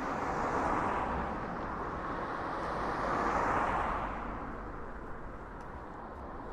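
Road traffic passing close by: a rushing tyre-and-engine noise that swells about a second in, swells louder again around three and a half seconds in, then fades away.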